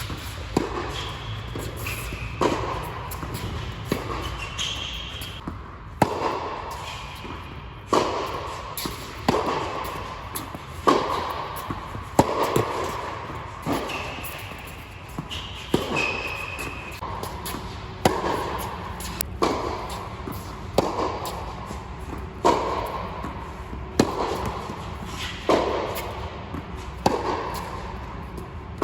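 Tennis rally: sharp pops of racquet strings hitting the ball and the ball bouncing on the court, about one every second and a half.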